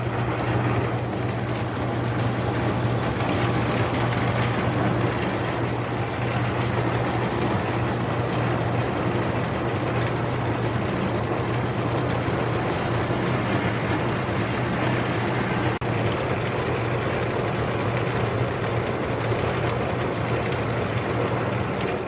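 Metal lathe running with a steady hum and hiss as it cuts a steel pipe stand, starting and stopping abruptly.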